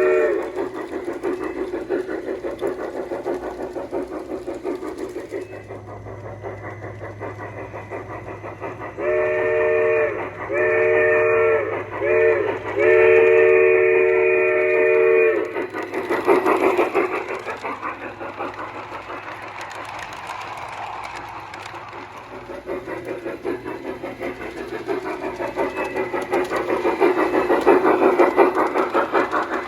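A G scale model steam locomotive's onboard digital sound system (Piko Camelback) chuffing steadily, with its chime whistle blowing a long, long, short, long sequence, the grade-crossing signal, about nine to fifteen seconds in. A short whistle note also ends just after the start, and the chuffing swells louder twice.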